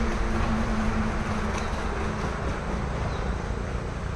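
An engine running steadily with a low rumble, and a hum over it that fades out about halfway through.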